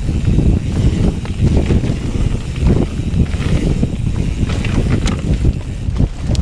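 Wind buffeting the microphone over the tyres and frame of a Bird Zero 29 hardtail mountain bike rolling over a dirt trail, with a steady rumble and frequent small rattles and clicks.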